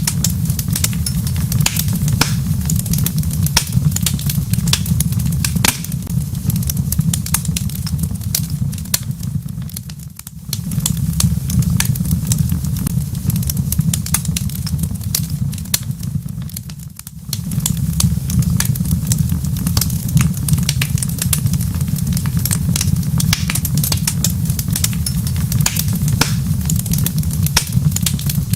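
Wood fire crackling in a fireplace: a dense run of sharp pops and snaps over a steady low rumble. The sound dips briefly twice, about a third and about two-thirds of the way through.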